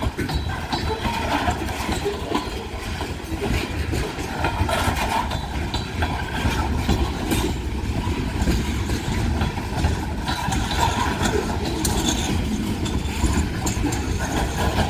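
Freight train of open-top hopper cars rolling past close by: a steady rumble of steel wheels on rail with scattered clicks and squeaks. Near the end an REGX car passes that the watcher bets is dragging.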